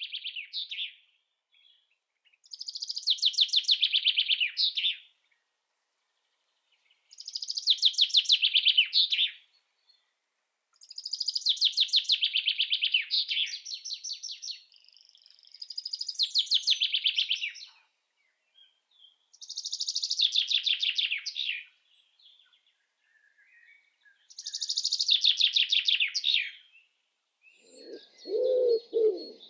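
A songbird singing the same rapid, trilling phrase again and again, each phrase about two to three seconds long with a pause of a second or two between. Near the end a dove starts cooing low beneath it.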